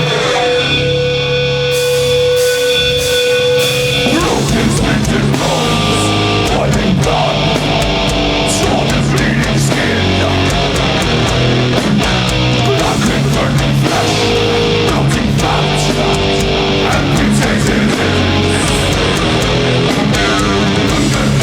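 Live heavy metal band playing: distorted electric guitars, bass and drums. A held guitar note rings over the opening seconds, then the full band comes in with a riff about four seconds in.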